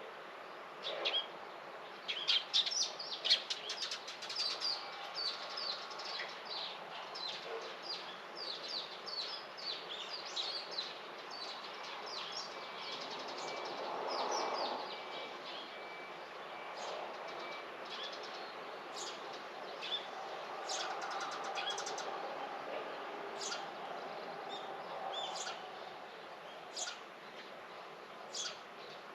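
Small birds chirping outdoors: a quick, dense run of short high chirps for the first ten seconds or so, then scattered single chirps over a faint steady background.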